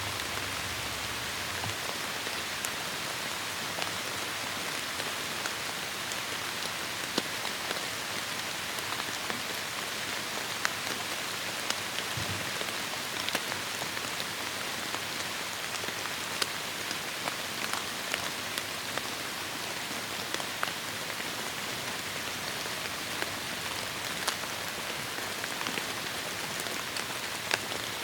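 Heavy rain falling on forest foliage: a steady dense hiss with many individual drops ticking sharply through it.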